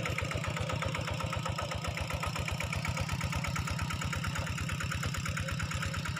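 A small engine idling steadily with an even, rapid chugging beat.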